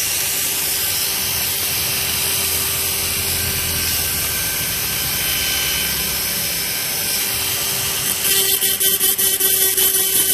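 Small electric rotary tool grinding down the remains of the broken upper hinge on a Zippo lighter's lid to smooth the spot for a new hinge. The whir runs steadily, then about eight seconds in turns louder with a fast pulsing as the bit bites the metal, and stops abruptly at the end.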